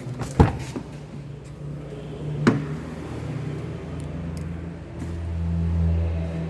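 Mitsubishi Xpander's 1.5-litre four-cylinder petrol engine running at a steady idle, growing louder about five seconds in. Two sharp clicks or knocks, one near the start and one about two seconds later.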